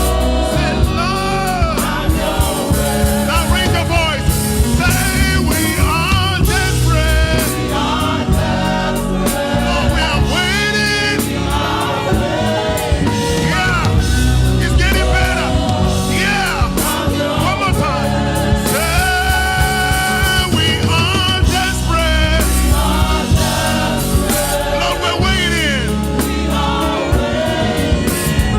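Gospel choir singing with a live band, bass and drums keeping a steady beat under the voices.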